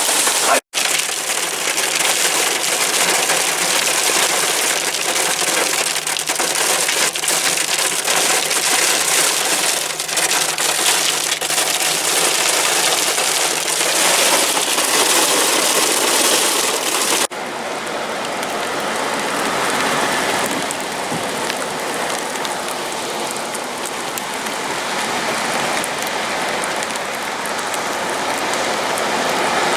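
Heavy rain falling, a dense steady hiss. It cuts out for an instant just under a second in, and about 17 seconds in it changes abruptly to a slightly quieter, softer downpour.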